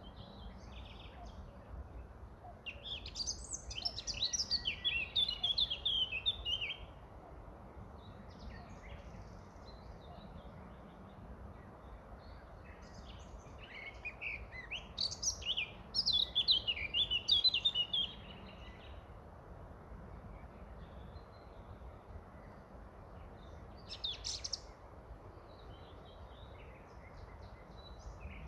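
Songbird singing: two long phrases of quick high chirping notes about ten seconds apart, and a short call about three-quarters of the way through, over a steady low background noise.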